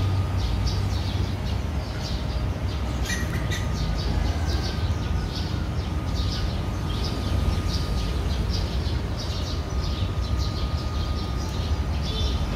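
Small birds chirping over and over, about two short high chirps a second, over a steady low rumble.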